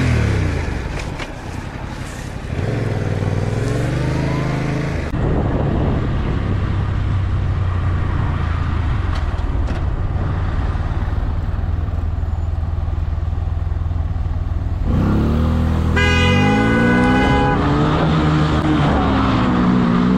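Vehicle engine running, revving up and down twice, with a horn sounding in one steady blast of about a second and a half near the end.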